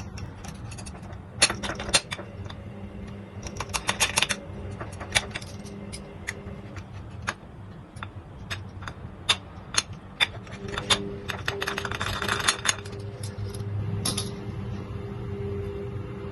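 Pizza cutter wheel rolling through a cheese-topped paratha, with irregular sharp clicks and short runs of clatter as it scrapes against the plate beneath. A steady low hum runs underneath.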